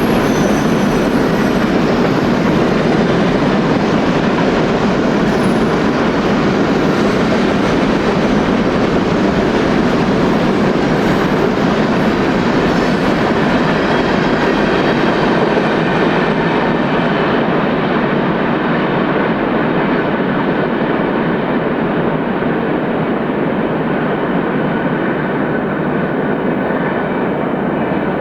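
A train rolling past close by: a steady, loud rumble of steel wheels on rail, with faint wheel squeal early on. It grows duller in the second half as the high hiss fades.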